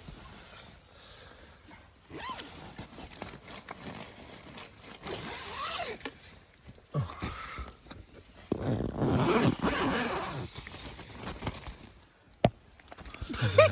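A tent zipper being pulled open in several stretches, with nylon fabric rustling; the longest and loudest pull comes about two-thirds of the way through, and a sharp click follows near the end.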